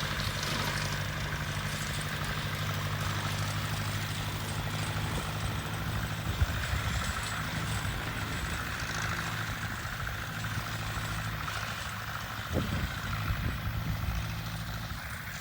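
Tractor engine running steadily with an even hum while cutting grass and weeds, with a few brief knocks about twelve seconds in.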